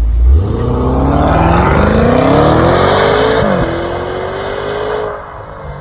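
Maserati Levante Trofeo's Ferrari-built 3.8-litre twin-turbo V8 accelerating hard from a standstill, rising in pitch, with an upshift a little past three seconds in and then rising again. The sound fades as the SUV drives away.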